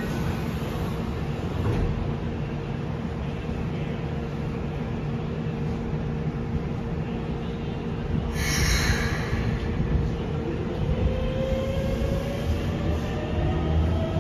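Inside a Keikyu 600-series train car at a standstill: a steady hum, then a short hiss of air about eight seconds in. From about eleven seconds the Mitsubishi GTO VVVF inverter and traction motors start up with a whine rising in pitch as the train begins to pull away.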